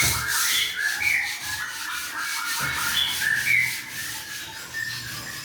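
A caged songbird chirping in quick runs of short notes with a few whistled glides, over steady scratchy rubbing noise.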